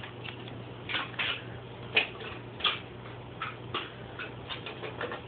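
A dog with its chew treat on a hard floor: scattered light clicks and taps at uneven spacing, over a steady low hum.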